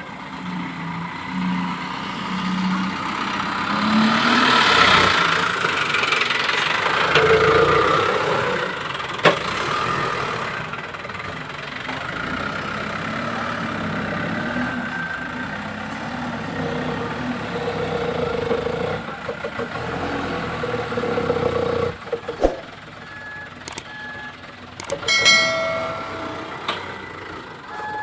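Truck engine running, rising to its loudest revving about four to eight seconds in, then settling to a steady run. Scattered clicks and knocks in the last few seconds.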